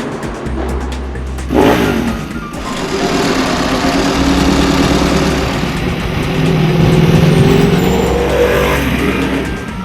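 Ducati Desmosedici RR's V4 engine running and revving on the road, with a sudden loud swell about a second and a half in and loudest around seven seconds in.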